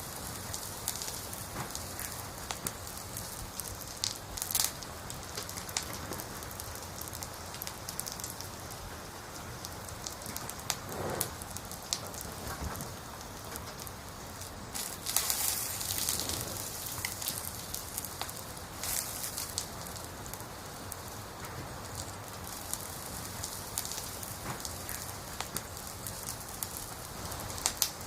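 Wood fire burning: a steady hiss with scattered crackles and pops from the burning logs, and brief flurries of louder crackling about four seconds in and again around the middle.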